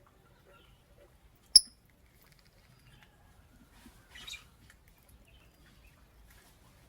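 Lovebird giving one sharp, high chirp about a second and a half in, then a softer, brief rasp around four seconds in.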